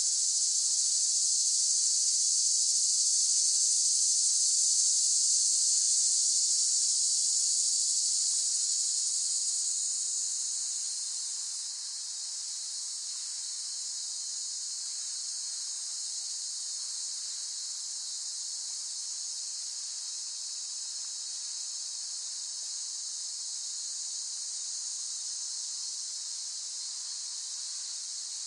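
Cicadas singing in a continuous high-pitched buzz, easing down somewhat in loudness about ten seconds in and then holding steady.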